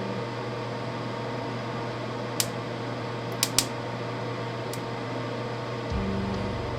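Steady electrical hum from mains-powered equipment, with a few sharp clicks. About six seconds in, a deeper, louder buzz sets in.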